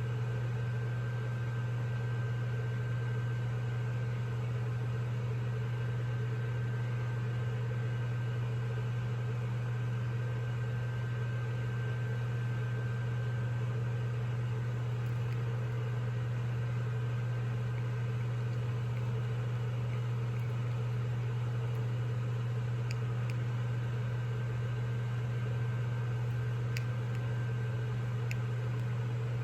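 Gas fireplace running: a steady low hum with a faint higher tone held above it, and a few faint ticks near the end.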